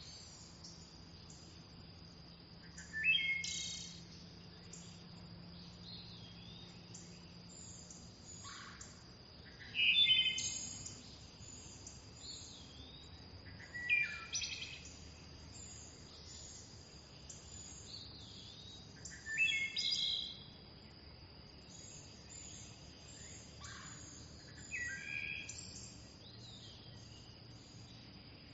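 Wild birdsong: one bird sings a short descending phrase of several notes every five seconds or so, over many fainter high chirps from other birds and a steady high whine.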